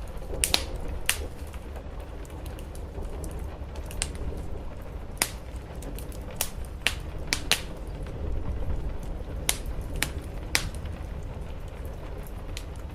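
Wood fire crackling, with about a dozen sharp irregular pops, over a steady low rumble of rain on a roof.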